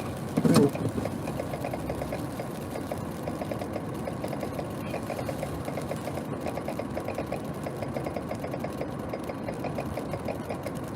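Idling vehicle engine with a fast, even ticking clatter. A single knock comes about half a second in.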